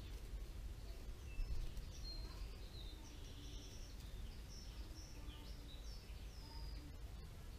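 Small songbirds chirping and whistling in many short calls, over a steady low rumble of outdoor background noise.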